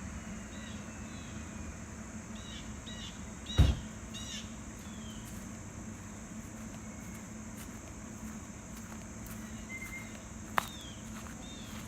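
Ford 6.7 L Powerstroke V8 diesel idling through a 5-inch straight-pipe exhaust, a steady low rumble, with birds chirping. A single loud thump comes about three and a half seconds in, and a sharp click near the end.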